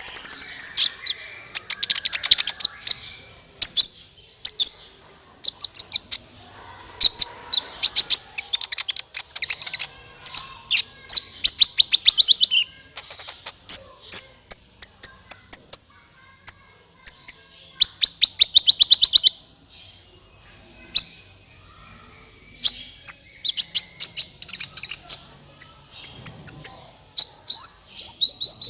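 Sunbird of the kind called 'kolibri ninja' in Indonesia singing: loud, high-pitched chirps and fast trills in short phrases broken by brief pauses, a recorded song used as a lure call for the species.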